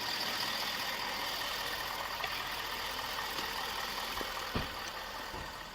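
A steady hum of running machinery with a faint high whine, with a few soft thumps a little over four seconds in, easing off slightly near the end.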